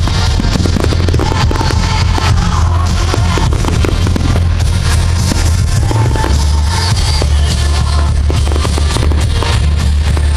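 Loud music with a heavy, steady bass line, with firework bangs and crackles scattered through it.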